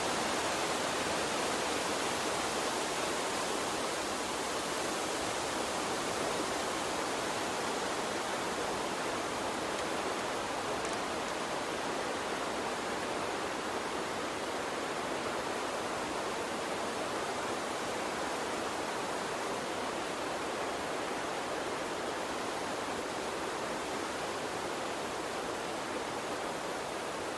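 Gentle water stream flowing with a steady, even rush, with no splashes or other distinct events.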